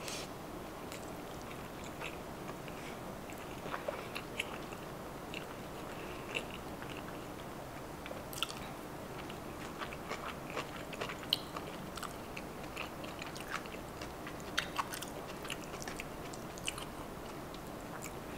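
A person chewing a mouthful of sushi roll (a Philadelphia roll of rice, salmon, avocado and cream cheese) close to the microphone, with many small, soft mouth clicks scattered throughout.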